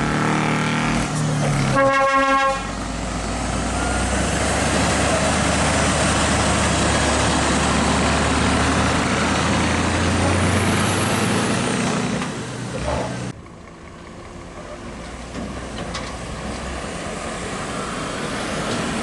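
A heavy truck's horn sounds once, briefly, about two seconds in, followed by the steady noise of a heavy truck's engine and tyres going by; the noise drops off suddenly about thirteen seconds in to a quieter background rumble.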